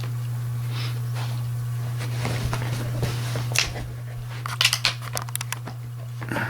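A dog gnawing on a rawhide bone: scattered crunchy clicks, coming thick and fast for about a second just past the middle.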